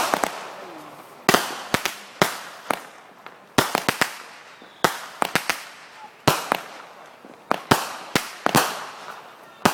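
Fireworks going off: a long run of irregular sharp bangs, often one or two a second, each trailing off in an echo.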